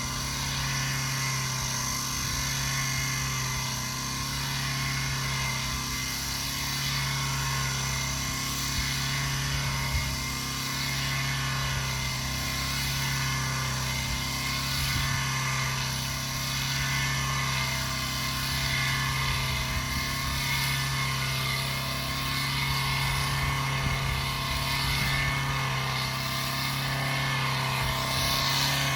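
Excavator engine running steadily, with a low hum that swells and fades about every two seconds.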